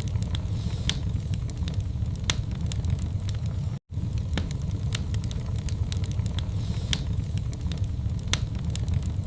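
Wood fire burning in a fireplace: irregular sharp crackles and pops over a steady low rumble of the flames, with a brief cut to silence about four seconds in.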